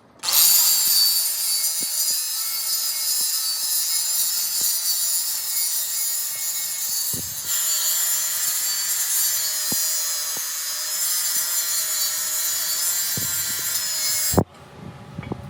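An angle grinder grinding metal: a loud, high, hissing grind over a steady motor tone. It starts suddenly, dips briefly about halfway, and stops suddenly near the end.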